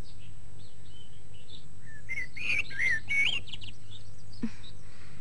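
Birds chirping, with a quick run of short chirps in the middle, over a steady low background hum.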